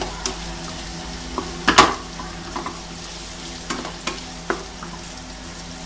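Beef spleen pieces and sliced onion sizzling in hot oil in a frying pan while a wooden spatula stirs them, with several sharp knocks and scrapes of the spatula against the pan, the loudest a little under two seconds in.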